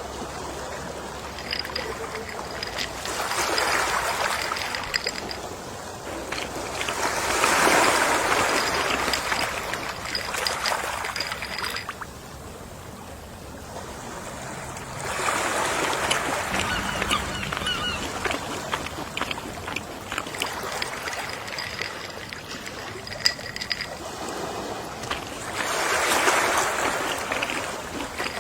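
Gentle sea waves washing onto the shore, swelling and fading four times, about every eight seconds.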